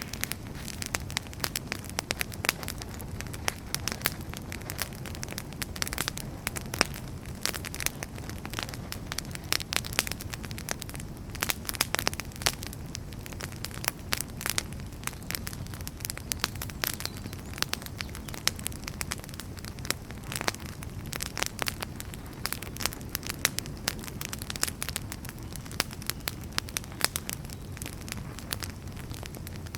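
Wood fire crackling: a dense, irregular run of sharp pops and snaps from burning firewood over a steady low rush of flame.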